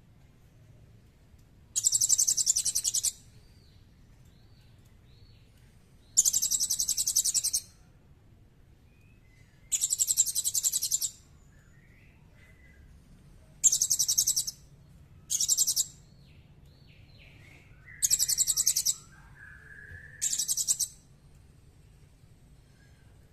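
A small bird singing seven loud, very high-pitched rapid trills, each about a second long, every few seconds, with faint soft chirps between them.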